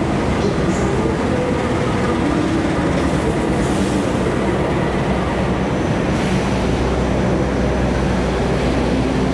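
Diesel-electric locomotive arriving alongside the platform and passing close by, its engine running loud and steady. The coaches then roll past on the rails, with a deep low hum growing from about halfway through.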